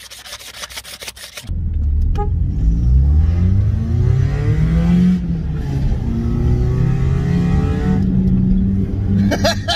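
Rhythmic scraping for the first second and a half. Then a car engine heard from inside the cabin, accelerating, its pitch rising, dropping back about five seconds in, and rising again.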